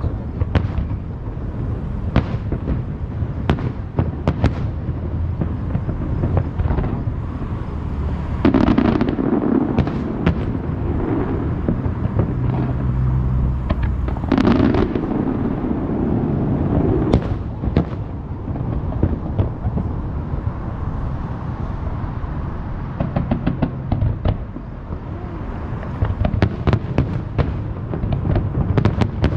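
Fireworks display: a continual run of shells bursting in bangs and crackles, with two louder swells about nine and fifteen seconds in.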